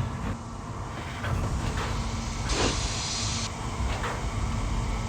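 Steam locomotive running with a low rumble, and a burst of steam hiss about two and a half seconds in that lasts about a second.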